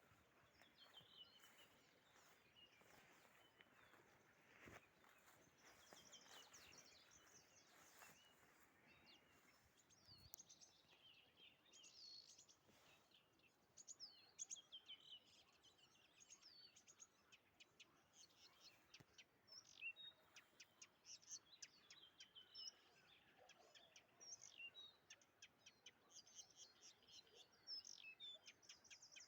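Faint songbird chorus: several small birds chirping and calling in quick, high notes, busier from about ten seconds in, over soft outdoor background noise.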